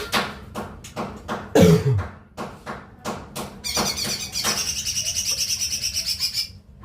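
Cucak ijo mini leafbird singing a fast, high chattering trill for about three seconds in the second half, which stops suddenly near the end. Before it come a string of sharp clicks and, about one and a half seconds in, a loud brief downward-sliding sound, the loudest moment.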